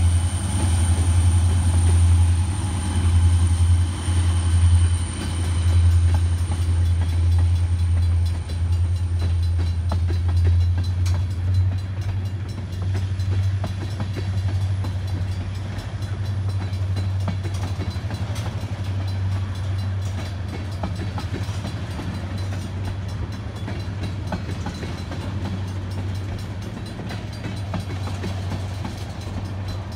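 Wheeling & Lake Erie freight train rolling past: a heavy low rumble, strongest in the first ten seconds and slowly easing off, with a thin high whine that fades out about ten seconds in, then the rail cars clicking over the rail joints.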